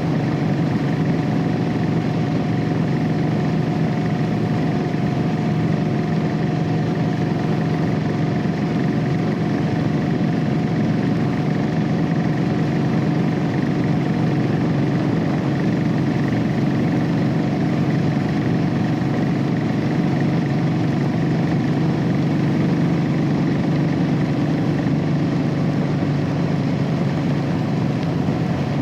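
Royal Enfield Classic 500's air-cooled single-cylinder engine running through its stock exhaust, the bike cruising at a steady speed.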